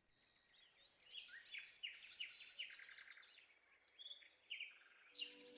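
Faint recorded forest birdsong: many short chirps and trills from several birds. Near the end, a steady droning tone from the meditation music comes in under it.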